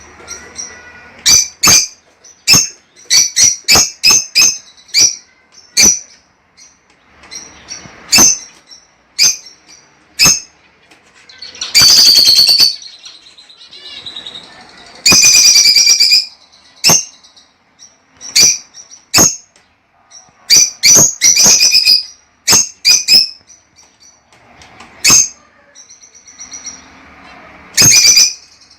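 Lovebirds calling: rapid runs of sharp, high-pitched chirps, with two longer screeching calls of about a second each near the middle.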